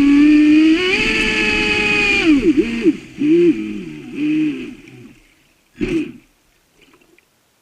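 Traxxas Spartan RC boat's brushless motor whining, its pitch dipping and climbing back with the throttle, then blipped several times and dying away about five seconds in. Two short sounds follow, one about six seconds in and one at the very end.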